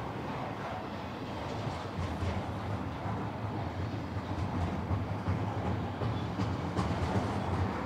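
Double-stack intermodal freight cars rolling past on steel rails: a steady rumble of wheels on track with a few faint clicks, getting slightly louder near the end.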